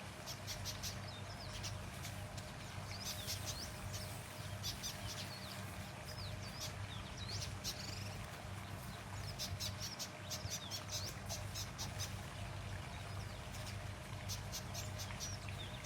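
Weaver birds chattering: clusters of rapid clicking calls and short chirps, in bursts with short pauses between them. This is the alarm chatter weavers give when mobbing a boomslang at their nests.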